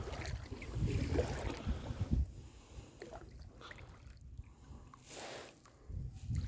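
Paddling a kayak: water dripping and ticking off the paddle, with one rushing paddle stroke about five seconds in. Wind buffets the microphone with a low rumble early on and again near the end.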